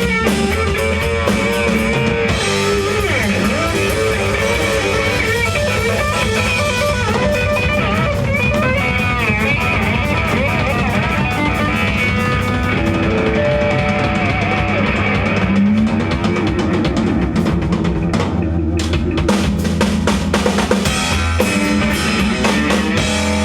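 Rock band playing, with guitar over bass and a drum kit, and a melodic line that bends up and down through the passage.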